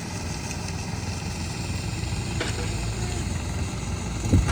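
An engine running steadily with a low, evenly pulsing rumble, and a single thump near the end.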